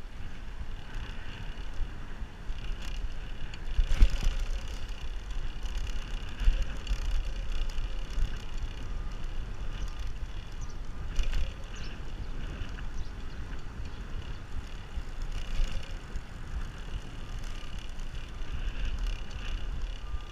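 A bicycle ride heard from the bike: a steady low wind rumble on the microphone and rolling tyre and road noise. A few sharp knocks come through, the loudest about four seconds in.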